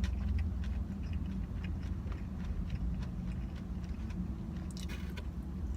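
Soft chewing with faint clicking mouth sounds over a steady low hum, with a brief burst of crisper crackling near the end.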